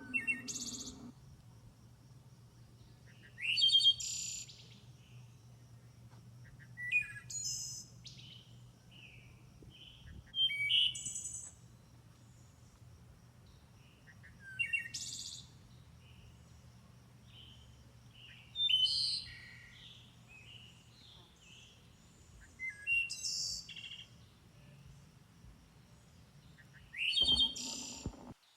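A songbird singing a short, bright phrase about every four seconds, each opening with a quick rising note, with softer chirps between phrases and a faint steady low hum underneath.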